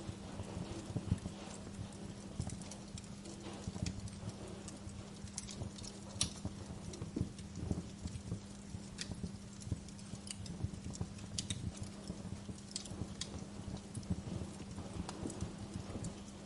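Wood fire crackling, with irregular sharp pops and snaps, some louder than others, over a soft hiss and a low steady hum.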